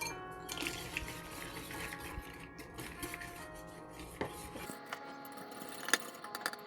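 Spoon or fork scraping and tapping against a bowl while mixing cake batter, with a sharp clink near the end, over soft background music.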